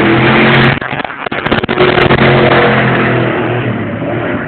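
1989 Ford Mustang 5.0's V8 at full throttle, dipping briefly about a second in at a gear change, then pulling hard again and fading toward the end.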